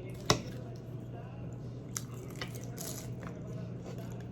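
Close-miked eating: wet chewing and mouth sounds, with one sharp click about a third of a second in and a few lighter clicks near the middle, over a steady low electrical hum.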